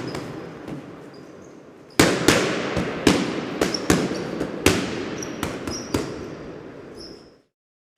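Battle sound effect: a hissing rumble, then about two seconds in, a rapid, uneven string of some fifteen sharp bangs like gunfire, each with a short echoing tail and faint high whistles among them. It stops suddenly shortly before the end.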